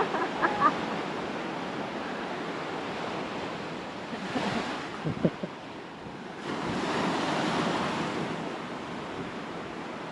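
Ocean surf breaking and washing up the beach, a steady wash with one wave swelling louder about two-thirds of the way through.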